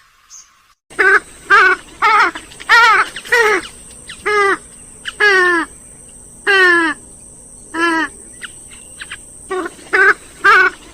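Grey-headed swamphen calling: a series of about a dozen loud, short calls, each sliding down in pitch, several with a rapid quavering trill, beginning about a second in.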